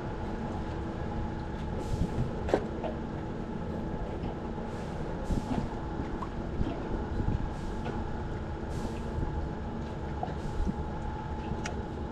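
Steady machinery hum over a low rumble, with a hiss that swells and fades about every one and a half to two seconds and a single sharp click about two and a half seconds in.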